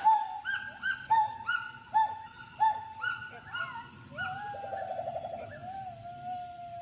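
Gibbon calling: a run of short whooping hoots, each rising and falling in pitch, about one to two a second, then a warbling trill and a long held note near the end.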